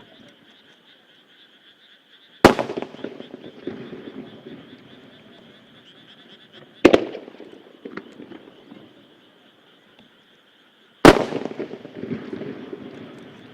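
Japanese aerial firework shells bursting one at a time: three loud single bangs about four seconds apart, each followed by a rolling echo, with a smaller pop after the second. A steady chorus of frogs calls underneath.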